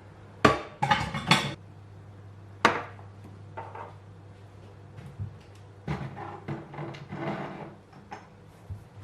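Kitchenware being handled: a quick run of sharp clinks and knocks in the first second and a half, another knock near three seconds, then lighter clattering.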